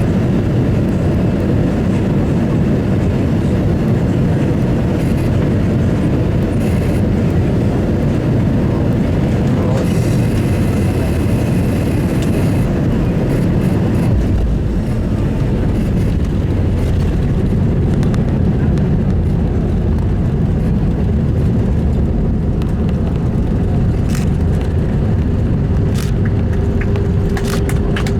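Inside the cabin of an Airbus A320-200: a loud, steady rumble of engine and airflow noise. The deep rumble grows stronger about halfway through.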